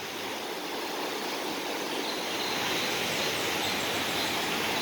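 Steady rush of flowing water from a river and waterfalls, growing slightly louder about two seconds in.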